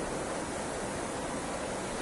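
Heavy rain falling steadily, an even hiss with no single drops or gusts standing out.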